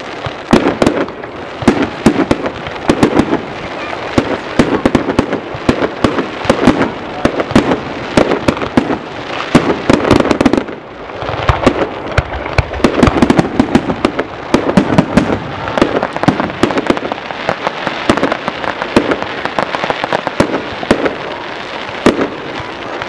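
Aerial fireworks display: shells bursting in many sharp bangs close together, with continuous crackling between them and a brief lull about eleven seconds in.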